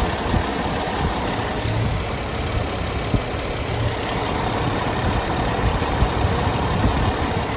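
2000 Mercedes-Benz CLK320's V6 idling, heard under the hood, with a couple of short knocks: the periodic thump of the HVAC heater-control part that makes a coolant pipe jump, a quirk tied to the temperature-control setting.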